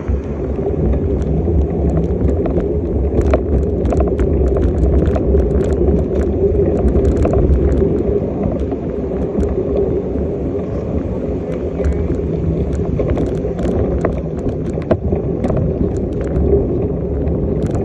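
Wind rumbling on the microphone and road noise of a bicycle being ridden, with many small clicks and rattles throughout.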